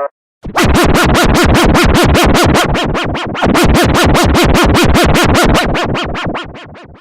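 Electronic siren warbling fast, about six pulses a second, each a quick rise and fall in pitch. It starts about half a second in and fades out near the end.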